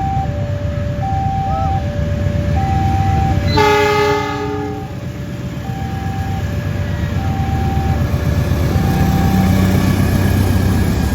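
Level-crossing warning alarm sounding, an electronic signal alternating between two tones, over the low rumble of a train. About three and a half seconds in, a locomotive horn gives one blast lasting about a second.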